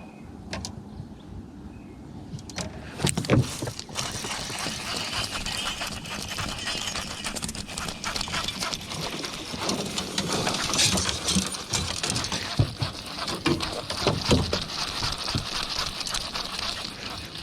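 A fishing reel being cranked as a hooked bass is fought toward the boat, with a busy run of clicks and water splashing that starts with a knock about three seconds in.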